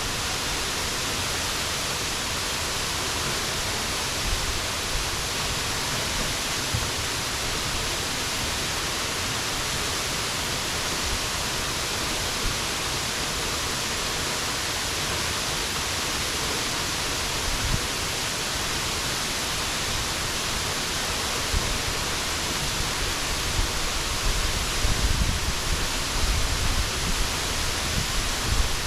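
Waterfall's steady rush of falling water, an even hiss. Low buffeting rumbles come and go in the last few seconds.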